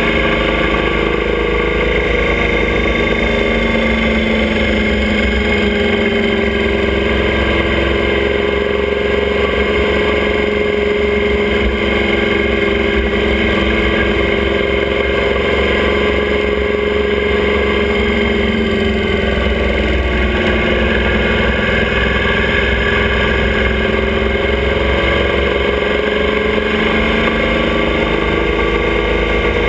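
Motorcycle engine of a sidecar outfit running steadily under way, its pitch wavering gently with the throttle, over steady wind and road noise.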